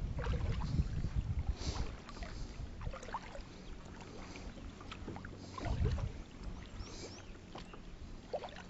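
Sounds of a kayak on the water: low rumbling surges near the start and again about six seconds in, with scattered small knocks and splashes of water against the hull.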